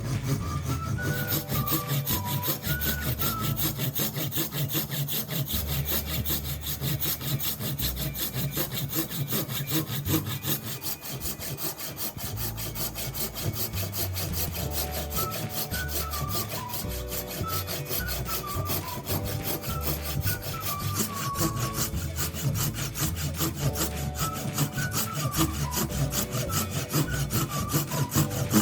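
Wooden hammer handle being worked by hand with fast, continuous back-and-forth scraping strokes, like sawing or rasping wood, over background music with a bassline and melody.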